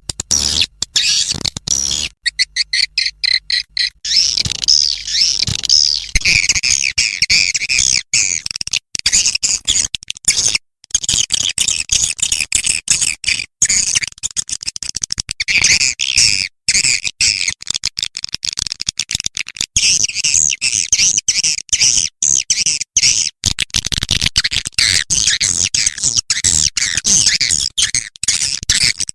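Swiftlet call lure track: dense, rapid, high-pitched swiftlet twittering and chirping, broken by many short gaps. It is the kind of sound played from swiftlet houses to draw edible-nest swiftlets in to roost and nest.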